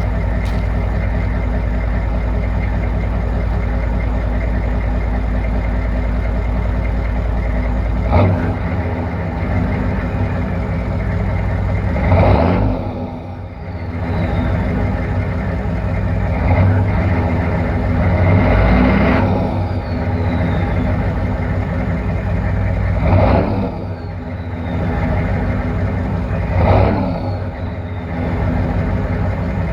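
1997 GMC K3500's 6.5-litre turbo-diesel V8 through an S&B exhaust, idling steadily and then blipped up about six times from about eight seconds in, each rev dropping back to idle. After several of the revs a high whistle falls away.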